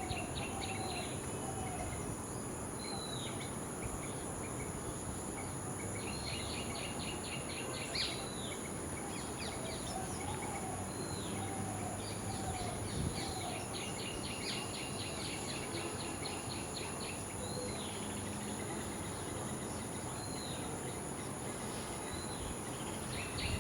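Insects and birds: a constant high insect drone, with repeated fast trilled chirps and short down-slurred whistles from birds. At the start and again about ten seconds in comes a short run of lower whistled notes.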